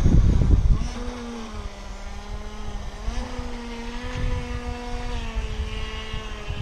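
Top Race TR-1200 RC speed boat's electric motor whining steadily at low, about one-third throttle, its pitch stepping up slightly a couple of times. A low rumble fills the first second.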